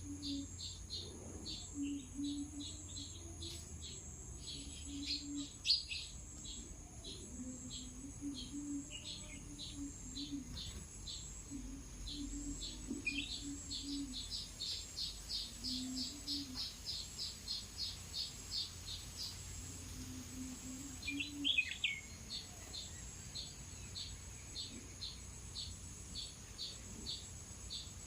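Small birds chirping in a rapid, steady series of short high notes, several a second, with a brief louder flurry about three-quarters of the way through, over a steady high-pitched insect drone.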